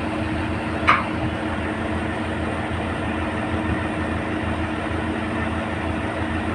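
Road recycler's diesel engine running steadily at idle, with one short sharp clink about a second in.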